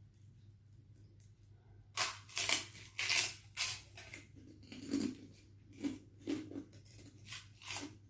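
Crisp crunching, about two crunches a second, starting about two seconds in: chicharon (fried pork rinds) being chewed close to the microphone.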